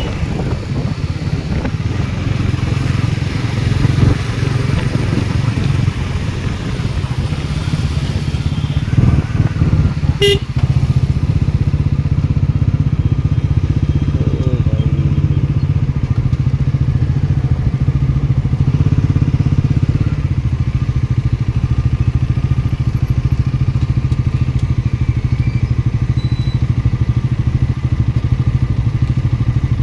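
Motorcycle engine running steadily, with a single sharp click about ten seconds in.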